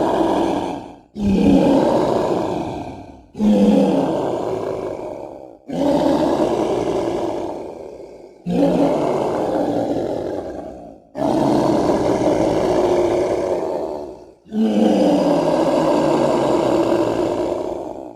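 Designed dinosaur roar sound effects for the burrunjor, a large theropod-like creature: the tail of one roar, then six more. Each one starts suddenly and fades over two to three seconds, with a brief gap between.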